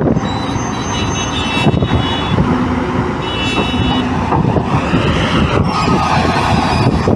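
Excavator running under work, a loud steady machine noise with a high whine twice in the first half.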